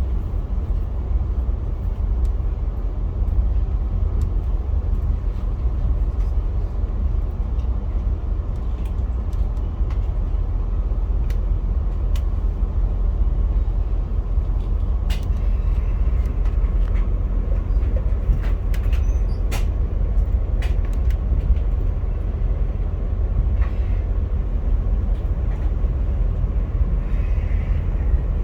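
Via Rail passenger train rolling along the tracks, heard from inside the coach: a steady low rumble with scattered light clicks and rattles.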